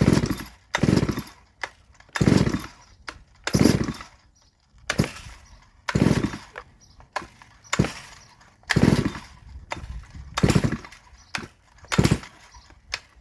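Neo-tec NS872 chainsaw, a clone with no decompression valve, being pull-started on choke. There are about ten pulls, a little over a second apart, and each one cranks the engine in a short burst without it staying running.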